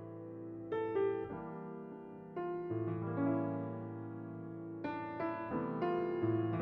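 Background piano music: slow, sustained chords, with new notes struck every second or two.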